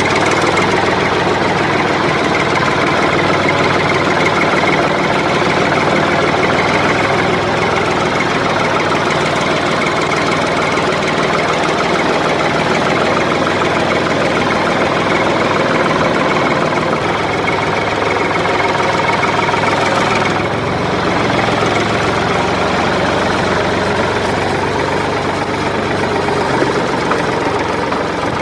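Steady mechanical running noise like an idling engine, continuous throughout, with a brief change in its higher part about twenty seconds in.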